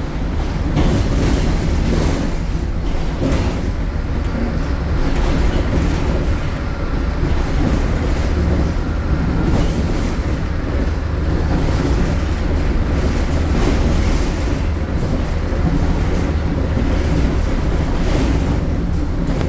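MAN A76 Lion's City bus running on the road, its MAN Euro 4 diesel engine with ZF automatic gearbox giving a steady, loud low drone, with body rattles.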